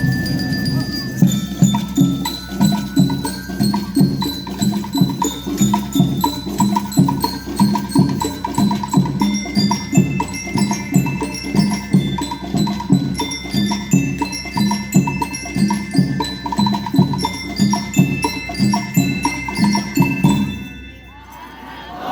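School rhythm band playing: bell lyres ring out a melody over a steady drum beat. The playing stops about twenty seconds in.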